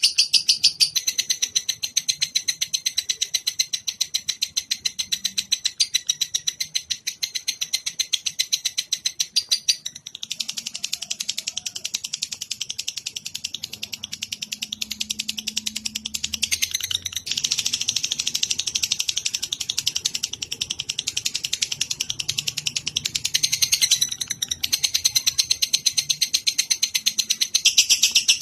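A cage songbird sings an unbroken, fast trill of repeated high notes, about six a second, for a master song-training recording. It changes its pattern a few times along the way.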